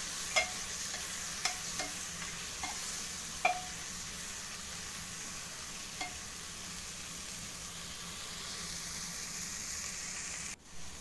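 Long beans and chickpeas frying in oil with their spices inside an aluminium pressure cooker, a steady sizzle. A metal spoon stirring through them clinks against the pot's side several times in the first six seconds, then the sizzle carries on alone.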